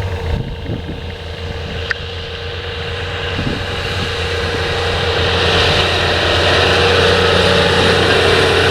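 Heavy farm machinery engine running steadily, getting louder about halfway through and then holding, with a single sharp click about two seconds in.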